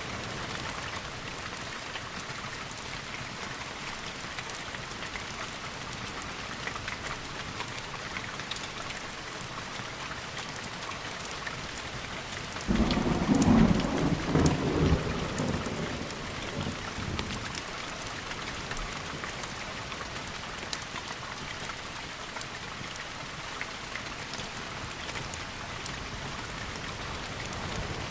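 Steady heavy rain, with a thunderclap about halfway through that breaks in suddenly and rumbles off over about four seconds.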